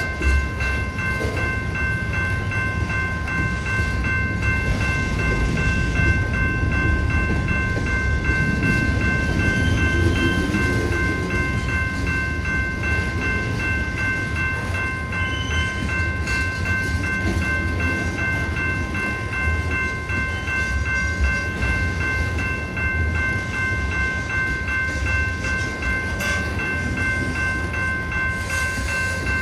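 A train rolling past with a steady low rumble, while a railroad crossing's warning bell keeps ringing at a fixed pitch.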